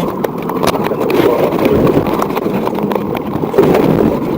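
Loud, rough vehicle noise with crackling clicks throughout, as heard on police pursuit footage.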